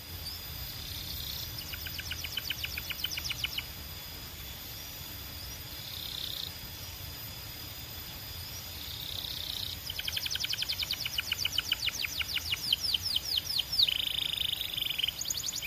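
Belgian canary singing in trills of rapid repeated notes. A short trill comes about two seconds in, a few single notes follow, then a long fast trill of rising sweeps starts near the ten-second mark and ends in a buzzy roll.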